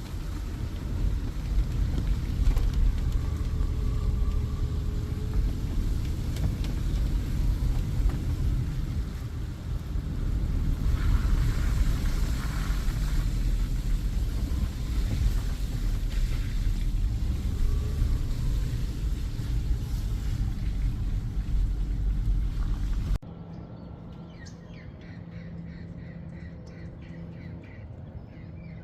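A steady low rumble with hiss cuts off suddenly about three-quarters of the way through. It gives way to a quiet background with short, repeated bird calls.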